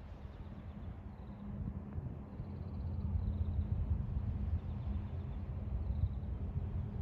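Seaside outdoor ambience: a steady low rumble that swells about two seconds in, with faint, short, high chirps repeating every second or so.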